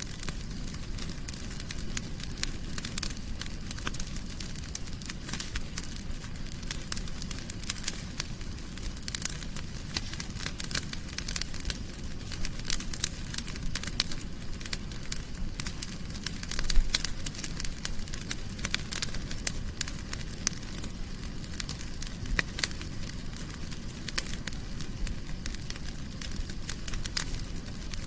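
Wood fire burning in a fireplace, crackling and popping continuously over a low rumble of the flames.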